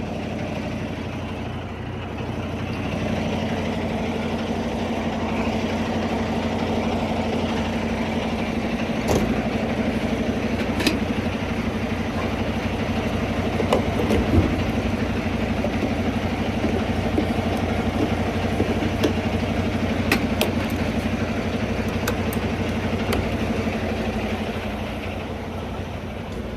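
Semi-truck's diesel engine running with a steady hum, and a few sharp clicks along the way.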